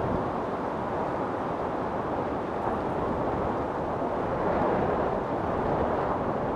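Wind storm blowing steadily as a dense rushing noise, swelling slightly in a gust about two-thirds of the way through.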